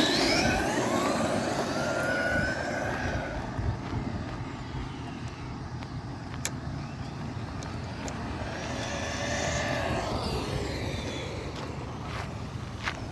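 Motor vehicles passing, with a steady rumble of road noise. A whining pitch rises and falls as the sound swells twice: once at the start and again about nine seconds in.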